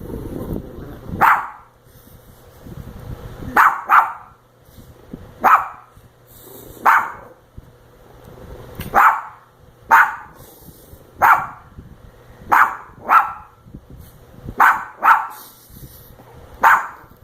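A dog barking in short, sharp single barks, about a dozen of them at intervals of a second or two, some coming in quick pairs.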